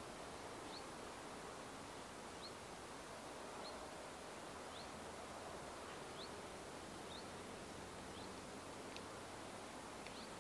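Quiet rural outdoor ambience: a steady faint hiss, with a small bird giving short high chirps about once a second.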